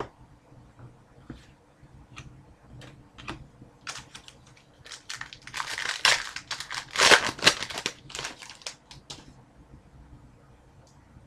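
Hands handling trading cards with light scattered clicks, then about five seconds in a few seconds of loud crinkling and tearing of a card pack's wrapper as a new pack is opened.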